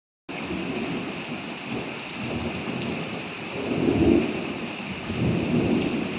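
Thunderstorm: steady heavy rain with rolling thunder that swells to its loudest about four seconds in and rumbles again a second later.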